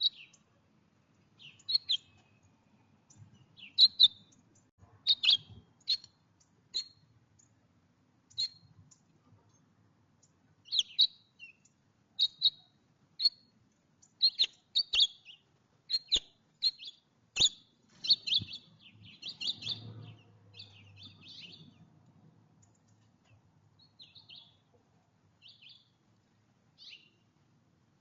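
Small songbirds at a feeder chirping: many short, high chirps in irregular clusters, coming thickest in a quick run past the middle, with a few sharp taps among them.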